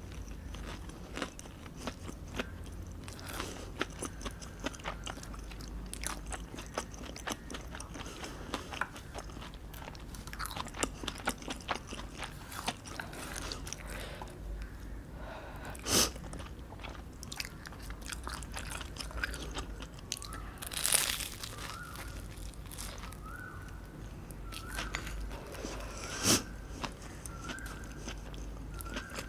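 Close-miked eating sounds: a person biting, crunching and chewing food, with many small wet clicks and three louder sharp snaps in the second half.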